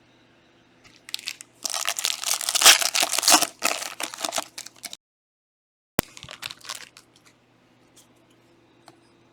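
Plastic wrapping of Panini Prizm trading card packaging being torn and crinkled, loudest in the first few seconds. The sound cuts out completely for about a second, then comes a sharp click and a little more crinkling.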